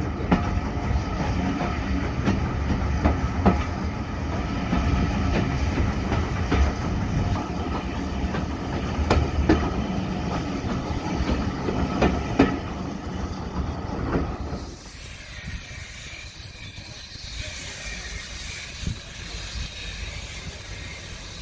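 Heritage steam train running on the rails: a loud low rumble with a sharp click about every three seconds. About two-thirds of the way through it changes abruptly to a quieter, steady hiss of steam.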